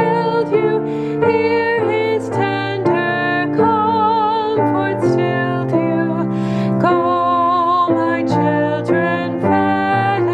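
Closing hymn sung with keyboard accompaniment: a melody line with vibrato moving note by note over sustained chords.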